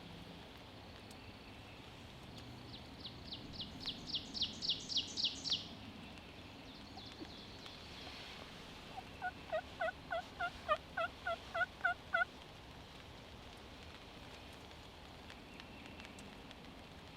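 A turkey yelping: a run of about a dozen evenly spaced yelps, about four a second, roughly midway through. Earlier there is a quicker series of about a dozen sharp high notes that grow louder.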